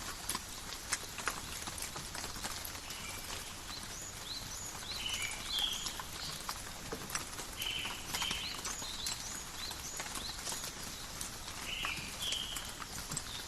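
Gentle rain in a forest, with a constant patter and many individual drops dripping and tapping close by. Short high chirping animal calls come and go over the rain, a few at a time.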